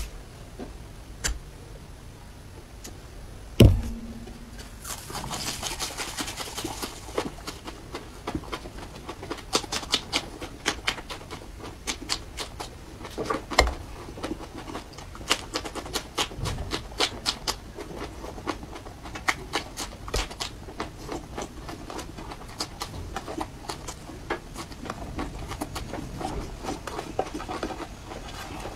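Crunching and chewing of raw red chilli peppers: many sharp, crisp crunches in an irregular run. A single loud thump comes about four seconds in.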